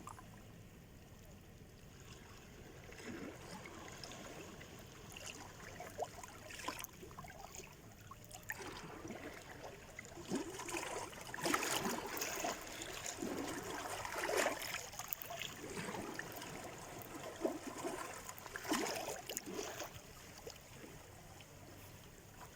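Black Sea surf: small waves washing and splashing against the shore, swelling to a louder stretch in the middle and easing off near the end.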